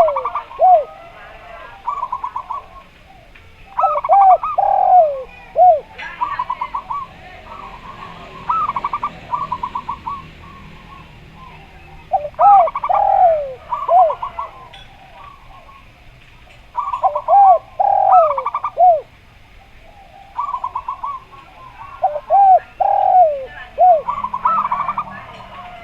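Zebra dove and spotted dove calling together. The zebra dove gives rapid stuttering trills of coos while the spotted dove gives lower, arching coos, in overlapping bursts every few seconds.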